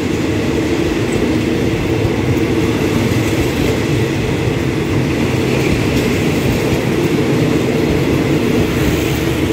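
Passenger carriages of a State Railway of Thailand express train rolling past the platform, a steady rumble of the wheels on the rails.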